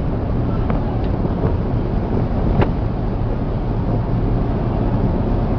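Boat engine running steadily under wind noise on the microphone, with a few short knocks, the loudest about two and a half seconds in.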